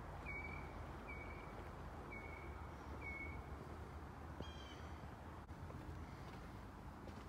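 A bird calling outdoors: four short, slightly falling notes about a second apart, then a harsher call with several overtones about four and a half seconds in, over a steady low background rumble.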